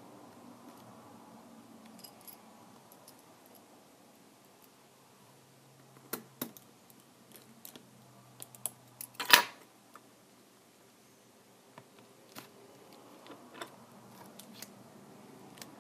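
Scattered small clicks and taps of tools and tablet parts being handled on a work surface, with one louder clatter about nine seconds in.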